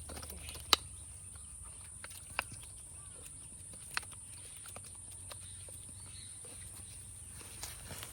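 A few sharp taps and knocks, the loudest about a second in, over a steady high hiss and a low rumble.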